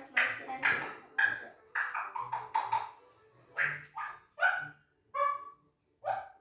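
Young African grey parrot giving a string of short calls, about two a second, with a brief pause about halfway through.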